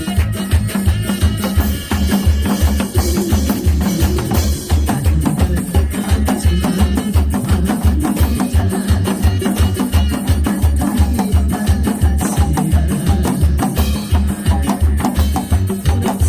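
Instrumental music with a steady, driving beat, and a janggu (Korean hourglass drum) struck along with it in free-style 막장구 drumming.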